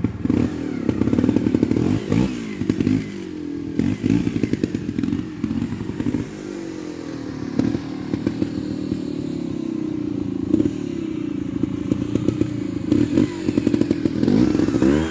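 Trials motorcycle engine at low speed, blipped up and falling back again and again, with knocks and clatter from the bike working over obstacles.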